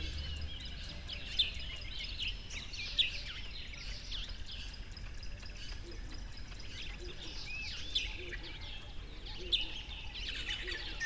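Small songbirds chirping and singing, many short sweeping calls overlapping, over a faint low steady rumble.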